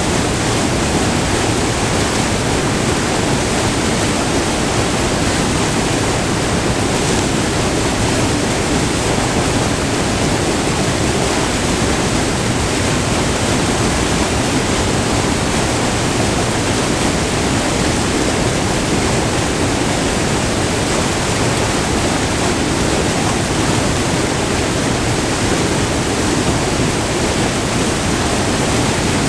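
Steady, loud rush of white water pouring over a short multi-tiered river waterfall, heard up close.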